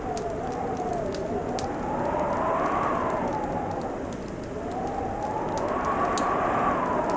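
Wood fire crackling in a fireplace, with scattered sharp pops. Under it a howling winter wind swells and fades, its pitch rising and falling slowly twice.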